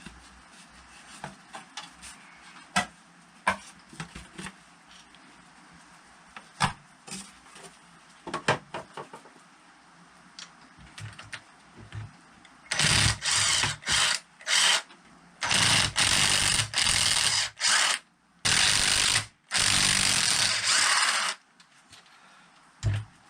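Scattered light clicks and taps of small metal parts and tools, then, about halfway through, a power drill-driver run in several loud bursts of a second or two each, backing out screws from a motorcycle engine.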